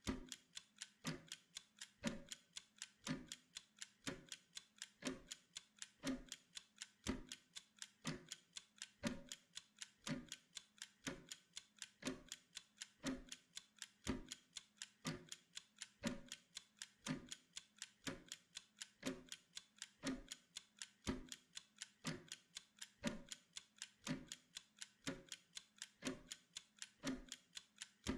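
Pomodoro timer ticking steadily, several even ticks a second with no break.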